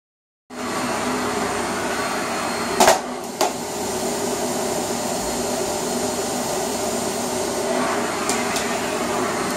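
Vacuum cleaner running steadily, switching on about half a second in, with a few brief knocks around three seconds in and again near the end.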